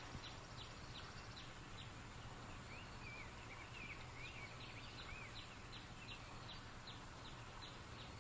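Faint woodland ambience of birds: a steady series of short, high chirps, about two or three a second, with a few warbling calls in the middle.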